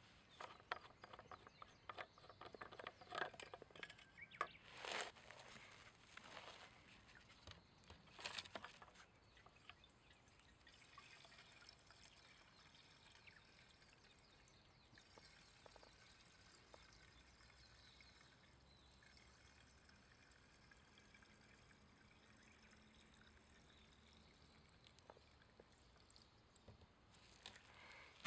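Faint scattered clicks and short rustles for the first ten seconds or so, then near silence with a low steady hiss.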